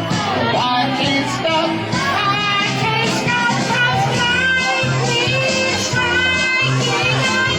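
Karaoke performance of a rock and roll song: a singer over a backing track with guitar and a steady beat.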